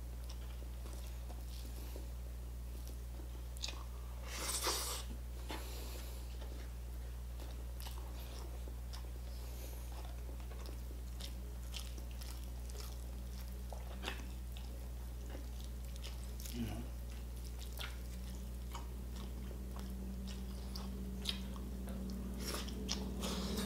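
A man chewing and tearing roast chicken apart with his fingers: scattered small clicks and smacks, with one louder burst about four and a half seconds in, over a steady low hum.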